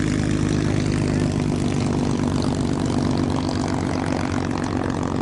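P-51 Mustang V12 piston engines running steadily, a deep drone that holds an even pitch.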